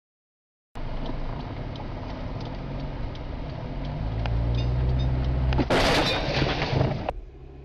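Car interior road and engine noise, the engine note rising. Then, near the end, a loud crash of impact and crunching metal lasting over a second, which cuts off abruptly.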